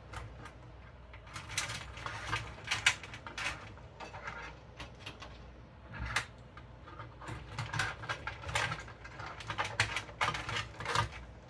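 Irregular plastic and metal clicks, taps and short scrapes of hands routing cables and handling parts inside a computer case.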